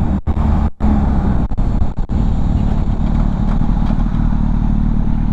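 2004 Honda CBR1000RR Fireblade's inline-four engine running at low, steady revs, with no revving. The sound dips out briefly a few times in the first two seconds.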